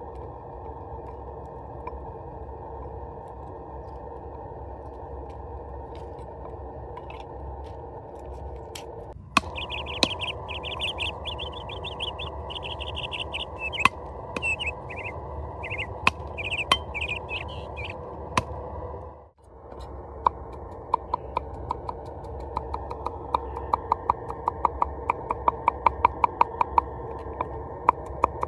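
Steady outdoor background noise with birds chirping for several seconds in the middle. Near the end comes a run of sharp, even taps, about three to four a second.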